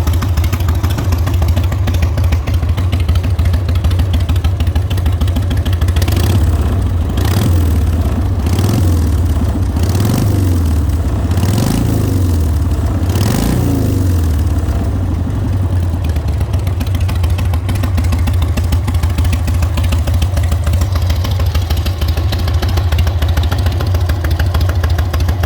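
Custom show motorcycle with two S&S engines idling, revved in about five quick throttle blips through the middle of the stretch, then settling back to a steady idle.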